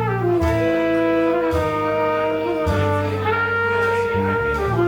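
Live jazz band playing: a horn holds long notes that step down in pitch over low bass notes.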